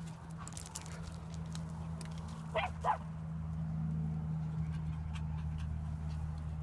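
A dog gives two short, high yips close together about two and a half seconds in, impatient for the stick to be thrown. A steady low hum runs underneath.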